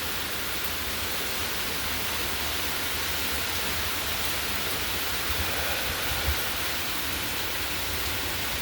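Heavy hurricane rain falling steadily, a dense even hiss with a low rumble underneath.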